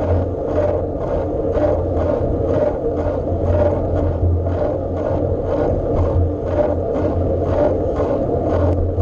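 Riding noise from a bike: a steady rumble with a rhythmic scrape repeating about twice a second.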